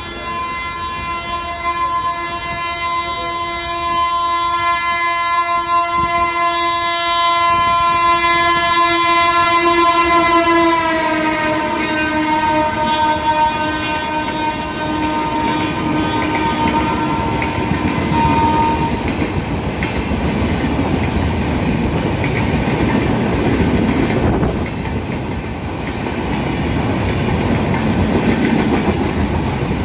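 Indian Railways train passing at speed without stopping. Its locomotive horn sounds one long continuous blast that drops in pitch as the engine goes by and stops about two-thirds of the way through. The rumble and clatter of the coaches rushing past follow.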